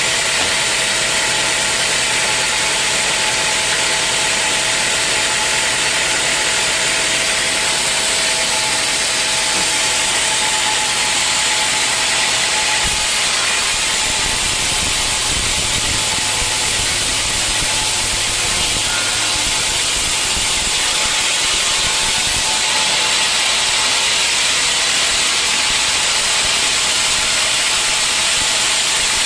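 Sawmill machinery running steadily while sawing teak logs, a loud continuous mechanical noise. From about 13 to 23 seconds in, a lower rumble joins it, then the sound settles back.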